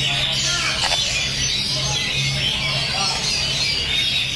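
A dense chorus of many caged songbirds chirping and trilling at once, over a steady low hum.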